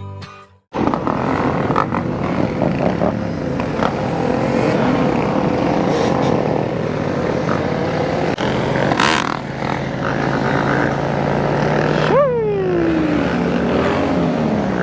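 Several motorcycle engines running and revving together, starting abruptly less than a second in, with a steady idle underneath. About twelve seconds in, one engine's note falls sharply.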